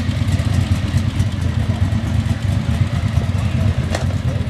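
Yamaha YZF-R6 inline-four sport-bike engine idling steadily with a low, even rumble and no revving. A single sharp click comes about four seconds in.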